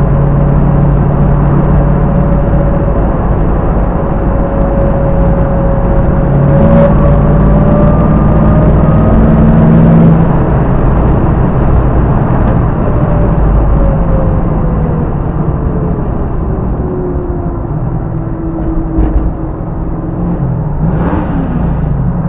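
A 1967 Camaro's engine running while driving, heard from inside the car with road rumble. Its note holds steady, then drops partway through.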